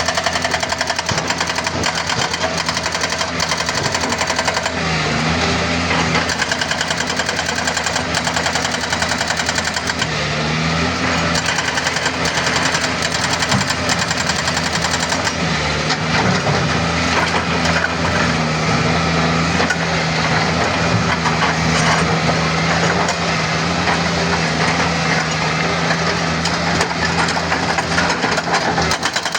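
Doosan DX140W wheeled excavator's diesel engine running steadily, its pitch rising briefly three times as it comes under hydraulic load, with a dense, rapid knocking throughout.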